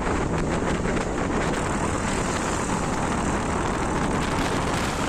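Wind rushing over the microphone during a motorbike ride in the rain: a loud, steady rush, heaviest in the low end, with many small ticks running through it.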